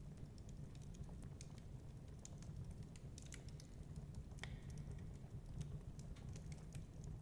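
Wood fire crackling in a fireplace, with irregular snaps and pops over a steady low rumble of storm wind.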